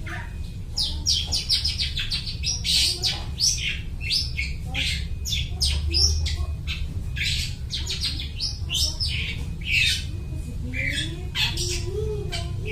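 Long-tailed shrike (cendet) in full song: a fast, unbroken run of short, high, scratchy notes, several a second, mimicking the calls of other birds. A steady low hum sits underneath.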